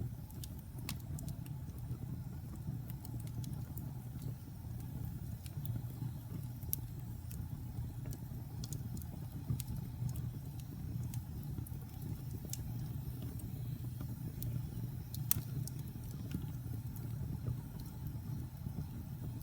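Wood fire burning in a fireplace: a steady low rumble of the flames with scattered sharp crackles and pops, one louder pop about fifteen seconds in.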